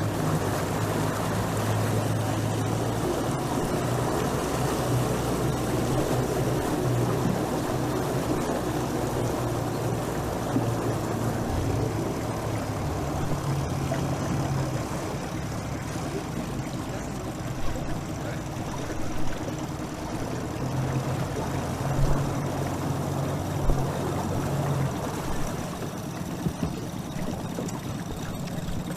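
A motorboat's engine running steadily, its pitch shifting a little now and then, with the rush of water and wind around the hull.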